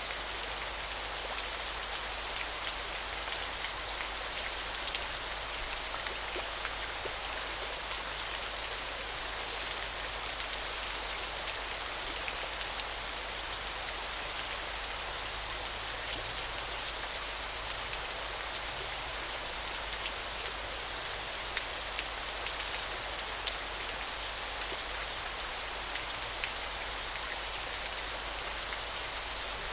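Steady rush of flowing river water. A high, thin buzz rises over it from about twelve seconds in and fades about nine seconds later, and short high chirps repeat near the end.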